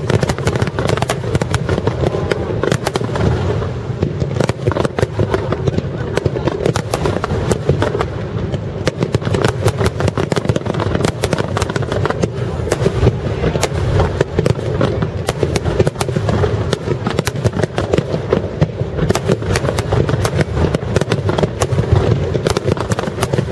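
Rapid-fire barrage of aerial fireworks shells launched and bursting in quick succession: a dense, unbroken run of bangs and crackles with no pause.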